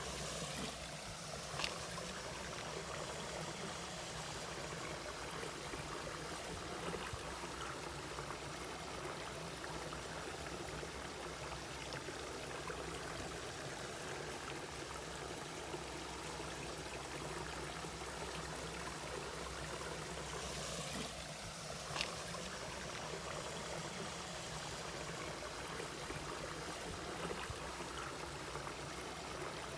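Mountain valley stream flowing steadily over rocks, with two brief sharp clicks from the water, one near the start and one about two-thirds of the way through.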